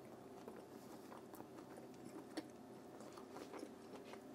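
Faint chewing of a mouthful of corned beef: soft, irregular mouth clicks and smacks, one a little louder about two and a half seconds in.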